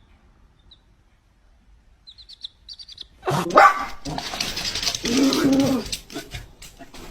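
A dog vocalizing loudly for about three seconds, preceded by a few short high chirps.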